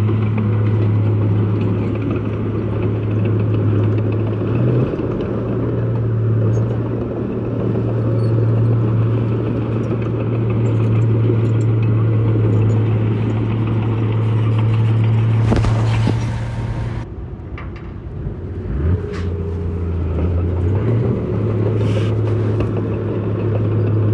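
Heavy diesel engine of an earthmoving machine running steadily at a fixed speed. About seventeen seconds in it drops to a lower, wavering pitch, then picks back up near the end. Just before the drop there is a brief burst of noise lasting about a second and a half.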